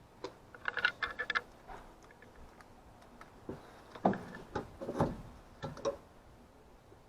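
Irregular light clicks and taps, with a quick cluster about a second in and a few heavier knocks between four and six seconds in.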